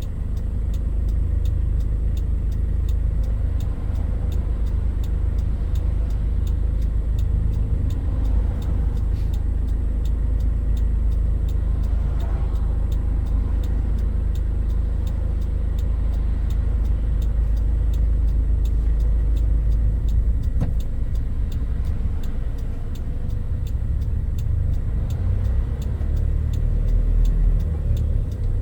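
Toyota Hilux Mighty-X pickup driving along: a steady low engine and road rumble, with a faint, evenly repeating ticking over it.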